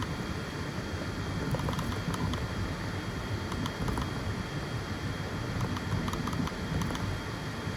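FDM 3D printer running a print: a steady whir of motors and fans with scattered small ticks.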